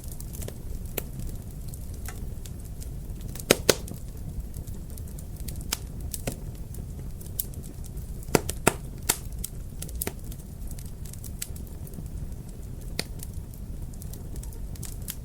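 Wood fire in a fireplace crackling, with a steady low rumble and scattered sharp pops, the loudest a pair about three and a half seconds in and another cluster about eight and a half seconds in.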